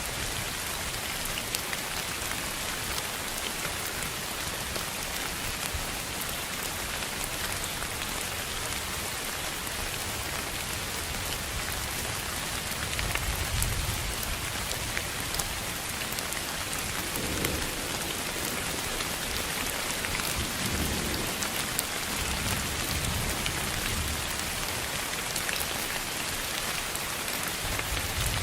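Steady rain with scattered drops ticking, its hiss spread evenly from low to high. Low rumbles swell in about halfway through and again in the second half.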